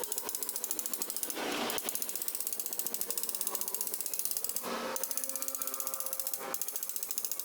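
Rapid, even mechanical clicking, many clicks a second, like a ratchet, broken by short louder rasping noises about one and a half seconds in, near five seconds in, and once more later.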